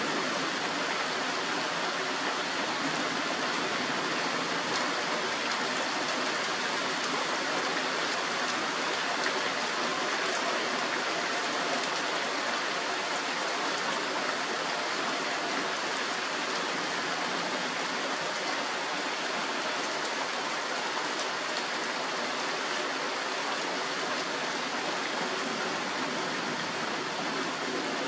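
Steady rain falling, an even hiss with no thunder and no change in loudness.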